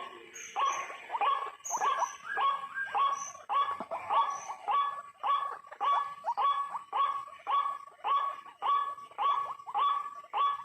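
White-breasted waterhen calling its repeated "kru-ak" call, about two calls a second in a steady, insistent series.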